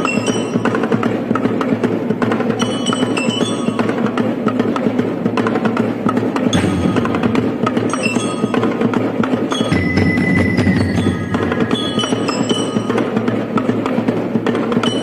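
Percussion music: a dense, steady stream of quick strikes on wooden and bell-like metal instruments, with short ringing high notes recurring every few seconds.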